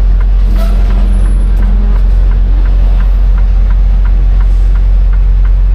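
Semi-truck diesel engine running with a steady low rumble as the tractor-trailer pulls forward during a backing manoeuvre, with a light ticking about three times a second.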